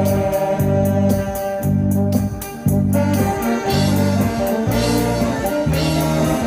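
Live music from an amateur band, with a bass line of even notes about two a second under a held melody line. The loudness dips briefly about two and a half seconds in, then comes back.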